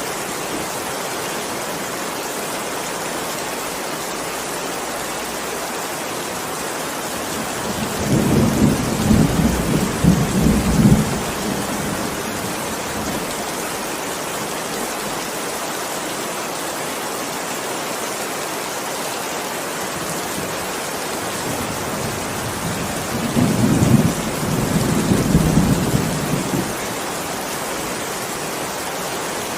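Steady heavy rain with thunder: two low rolls of thunder rumble for about three seconds each, one about eight seconds in and one about twenty-three seconds in, over an even hiss of rain.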